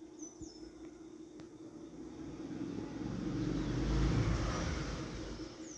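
A passing road vehicle: its noise swells to a peak about four seconds in and fades away, over a steady low hum.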